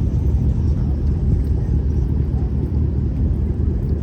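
Car engines idling: a steady low rumble.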